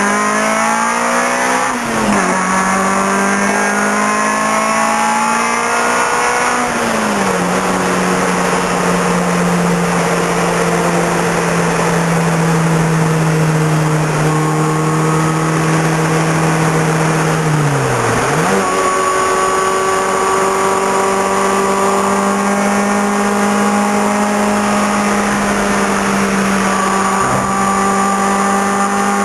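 Toyota MR2's engine heard from inside the cabin while driving. It revs up and drops sharply in pitch at a gear change about two seconds in, climbs again and falls back around seven seconds, then holds a steady cruising note. About eighteen seconds in the pitch dips sharply and comes back to a slightly higher steady note.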